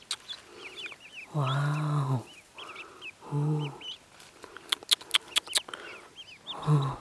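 Newly hatched ducklings peeping with short, high chirps that bend in pitch, with sharp clicks partway through. A person's low, steady hum or murmur sounds loudly three times: about a second in, around the middle, and near the end.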